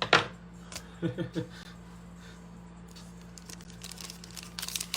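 Foil basketball card pack (Panini Optic) being crinkled and torn open: a sharp crackle at the start and more crinkling near the end.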